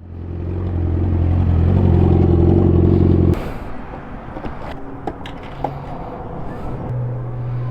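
Yamaha R6 inline-four engine running at a steady, held speed, loud, then cutting off abruptly a little over three seconds in. After that comes a quieter low engine hum with scattered clicks.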